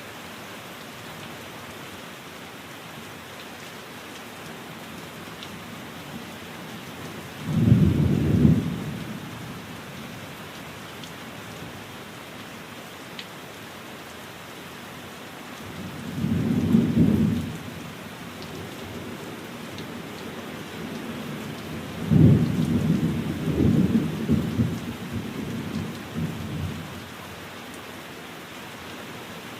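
Steady rain falling, with three low rolls of thunder: a short one about a quarter of the way in, another just past halfway, and a longer, rolling one near the end, which is the loudest.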